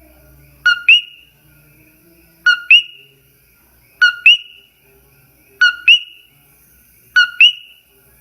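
An animal's whistled two-note call, repeated five times about every one and a half seconds: a short note, then a sharper note that sweeps up in pitch.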